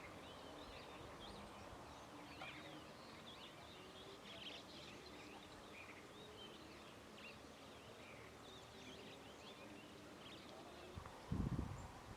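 Many small birds twittering together in a faint chorus of short, overlapping chirps, with a few low thumps about a second before the end.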